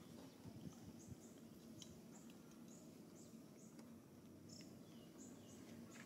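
Faint, high, short chirps from a small bird calling, repeating about twice a second, each dropping slightly in pitch, over quiet outdoor background.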